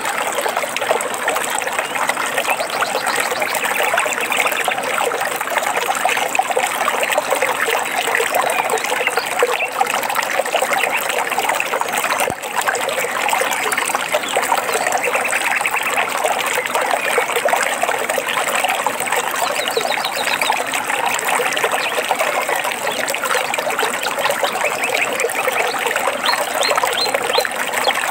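Stream water trickling and babbling steadily, with a few short high bird chirps near the end.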